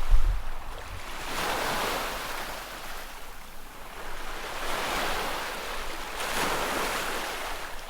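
Sea waves washing onto the shore, the rush of water swelling and fading several times. A short gust of wind rumbles on the microphone at the very start.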